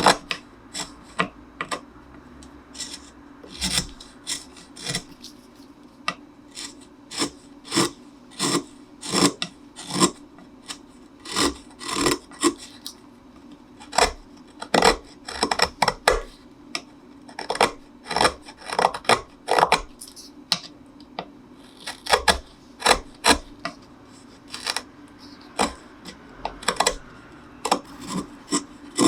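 Hand tools shaving and scraping the wood of a cello neck in short, irregular strokes, roughly one or two a second, over a steady low hum.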